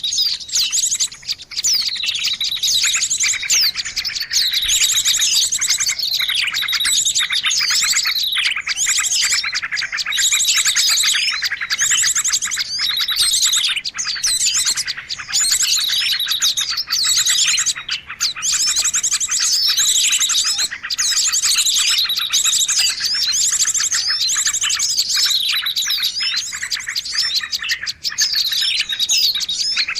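A busy mixed chorus of many small birds chirping and trilling over one another without a break, with rapid high sweeps and fast trills overlapping throughout: a bird-luring call recording.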